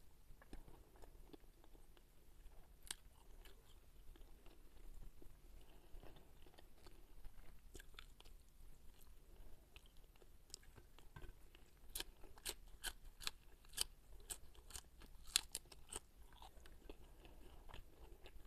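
Faint, close-miked chewing of fried carp and green onion, with wet mouth sounds and small crisp crunches. The crunches come thicker and sharper just past the middle.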